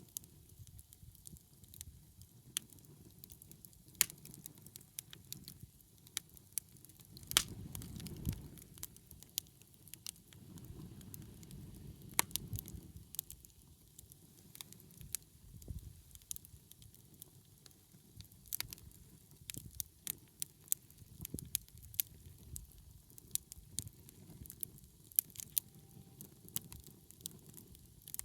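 Wood campfire crackling, with sharp pops at irregular intervals over a low, uneven rumble.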